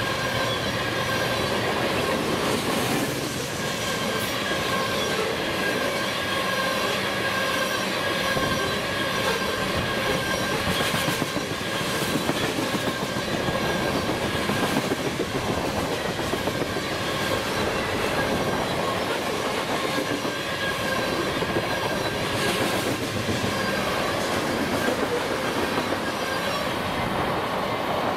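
Freight train of tank cars rolling past, steel wheels clacking over the rail joints with a steady high-pitched wheel squeal throughout.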